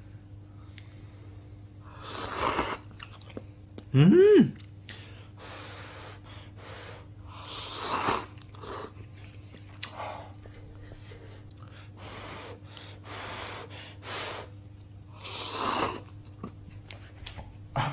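People eating instant cup ramen: chewing with small clicks and several loud noisy slurps of the noodles. A short rising vocal sound about four seconds in is the loudest thing, and a faint steady hum runs underneath.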